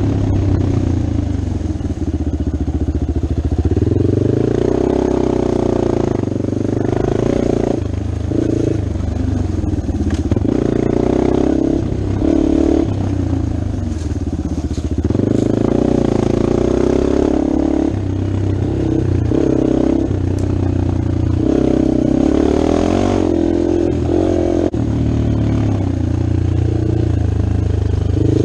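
Yamaha XT250 dual-sport motorcycle's single-cylinder four-stroke engine running under load as it is ridden, the revs rising and falling again and again with throttle and gear changes.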